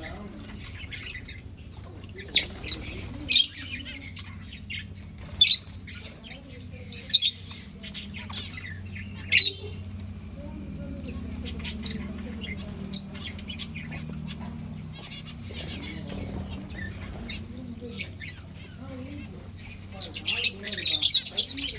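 Aviary finches giving short, sharp high calls every second or two, with a quick run of calls near the end, over a steady low hum.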